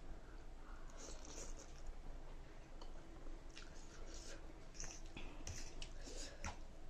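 A person eating ramen noodles, chewing with scattered short, wet mouth sounds.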